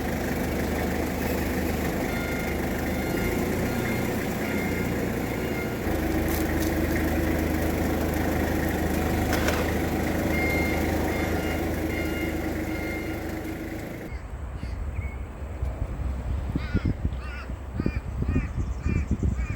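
A vehicle engine running steadily, its note shifting about six seconds in. It then gives way abruptly to birds calling in quick repeated calls over low, uneven rumbling.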